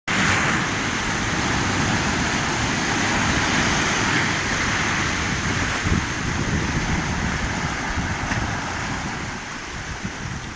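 Black Sea surf breaking and washing in, a steady rush of water with wind buffeting the microphone, easing slightly near the end.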